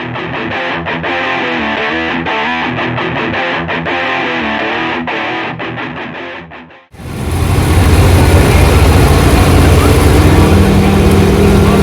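Rock music with distorted electric guitar cuts off abruptly about seven seconds in. A loud diesel pickup truck engine running hard under load takes over.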